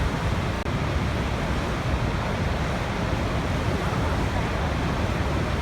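Waterfall: falling water rushing in a steady, unbroken roar, heaviest in the low end.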